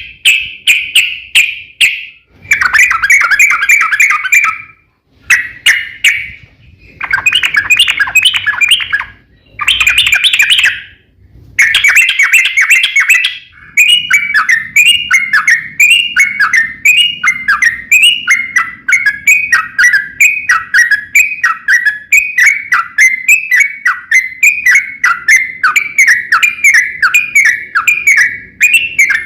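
Yellow-vented bulbul (trucuk) singing loudly: several phrases of fast chattering song with short pauses between them, then a long run of quick repeated down-slurred notes, about two a second, in the long rolling song that keepers call a ropel.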